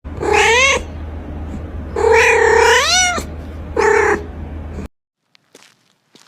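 Cat meowing three times: a short call, then a longer one that rises in pitch at its end, then a short one. A steady low hum runs underneath and stops abruptly near the end, leaving only a few faint ticks.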